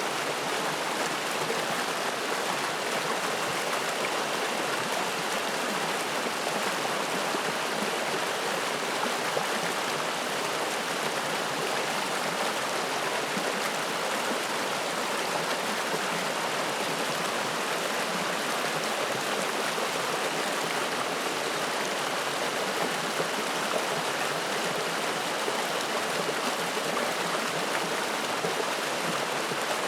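Spring-fed mountain stream flowing and splashing in a steady, even rush of water.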